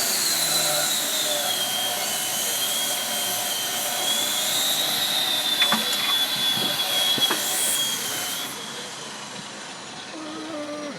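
A power tool running with a steady high-pitched whine over a loud hiss, with a few sharp clicks; it winds down about eight and a half seconds in.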